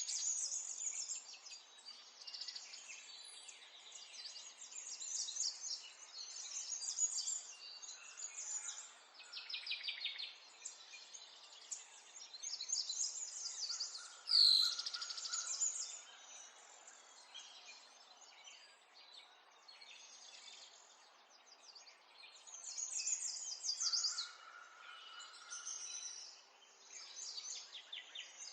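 Several small songbirds chirping and trilling over one another in quick, overlapping phrases, with one loud, sharp call about halfway through.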